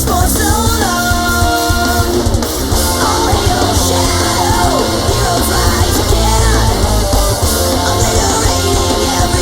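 Nightcore edit of a hard rock song, sped up and pitched up, playing at a steady loud level with a driving beat.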